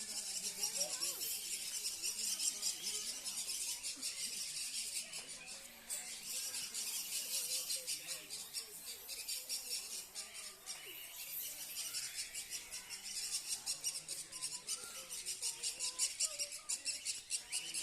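Many small caged birds chirping at once, a dense, unbroken high-pitched chatter of rapid chirps.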